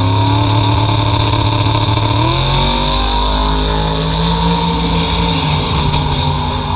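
Drag car accelerating hard down the strip at full throttle, its engine note climbing, shifting in pitch about two and a half seconds in, then easing slightly as it pulls away.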